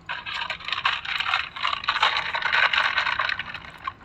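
Rattling and scraping of packaged snacks being handled, many small clicks close together, stopping just before the end.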